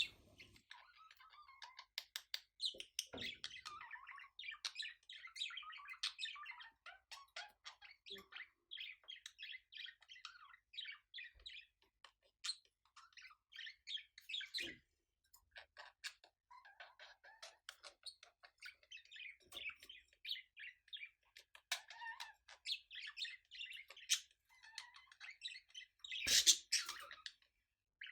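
Budgerigars' courtship warbling: a fast, continuous chatter of chirps and clicks, with a few short pauses and a louder, harsher burst near the end.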